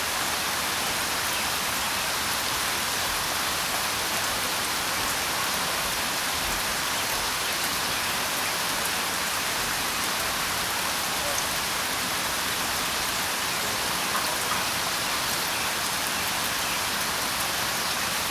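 Steady rainfall: a dense, even hiss of drops hitting surfaces.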